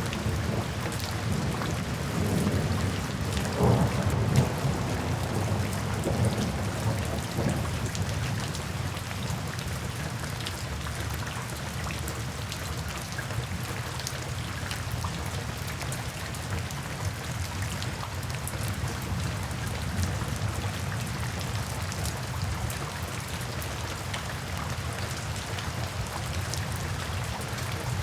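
Steady rain falling, with a low roll of thunder in the first few seconds that swells and fades away by about eight seconds in.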